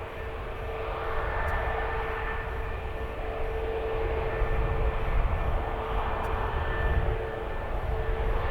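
Airliner engines running at low, steady power while the aircraft taxis: a steady whine over a low rumble.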